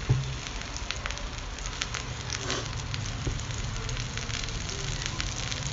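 Eggplant and tomato pieces frying in oil on a tawa: a steady sizzle with many small crackling pops scattered through it.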